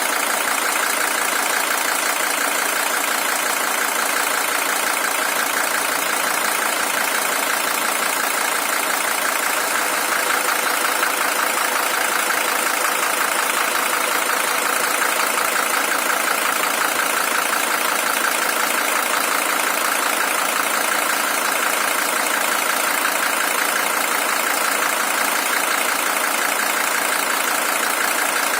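Mercedes-Benz OM617 five-cylinder diesel engine, the original unit with 620,000 km on it, idling steadily in a W123 300TD.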